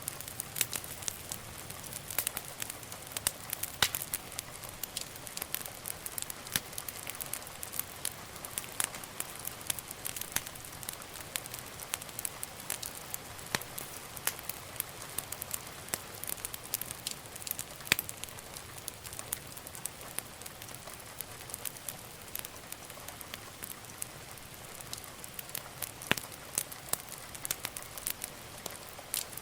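Wood fire crackling in a fireplace: a steady soft hiss with irregular sharp pops and snaps, a few louder ones about four seconds in and around the middle.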